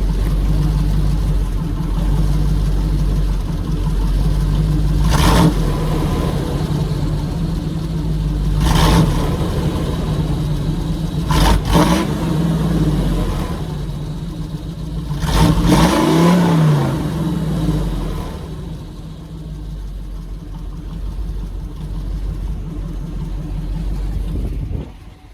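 Small-block 350 V8 with throttle-body injection in a 1989 Chevy Blazer, running through headers and a Dynomax Super Turbo muffler with a turndown tailpipe. It rumbles steadily, and four short blips of the throttle come a few seconds apart. After the last blip it settles back to a quieter, steady run.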